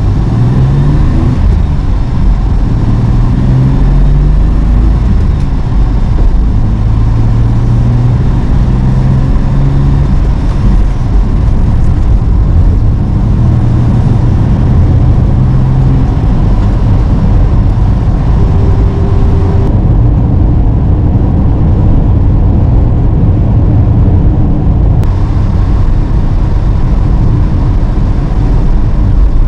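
Old Nissan Skyline 'Kenmeri' car driving on the road, its engine note rising and falling several times as it accelerates and eases off, over steady road noise.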